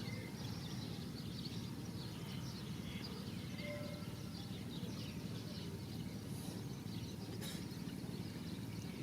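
Outdoor ambience: a steady low rumble with faint, scattered bird chirps, and a single sharp click about seven and a half seconds in.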